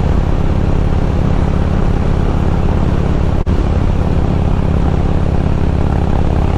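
Harley-Davidson Road King's V-twin engine running steadily under load, pulling up a hill in sixth gear on 100% gasoline. A momentary dropout in the sound comes about halfway through.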